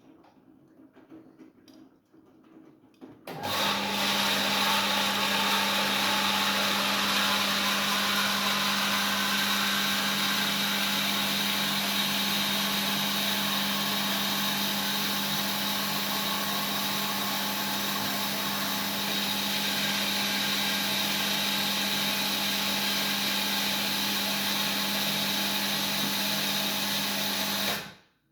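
Siemens iQ700 washing machine running loud and steady, a motor hum with a hissing whine over it; it starts abruptly about three seconds in and cuts off just before the end.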